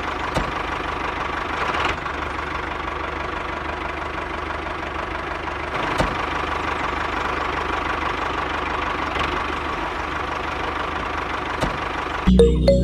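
An engine idling steadily with an even knocking beat, cut off near the end by music.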